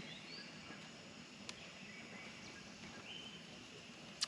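Faint outdoor ambience with a few short, high bird calls, one rising and one held briefly, and a single sharp click about a second and a half in.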